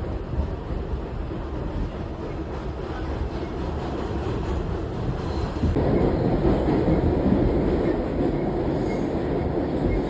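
R62 subway car running between stations in the tunnel, a steady rumble of wheels on rail and running gear that grows louder about six seconds in.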